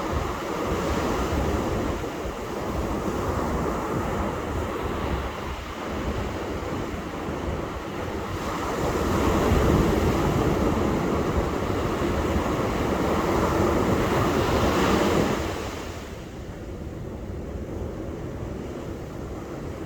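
Ocean surf washing on a beach: a steady rush of breaking waves that swells louder through the middle and falls away sharply near the end as a wave recedes.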